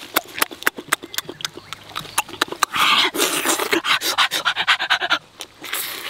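Loud wet chewing and lip-smacking of squid, about three smacks a second. From about three seconds in come hissing, panting breaths through pursed lips, mixed with the chewing.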